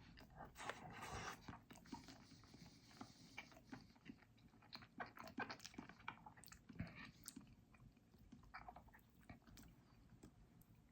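A person chewing a mouthful of chicken burger, faint, with irregular wet smacks and clicks of the mouth.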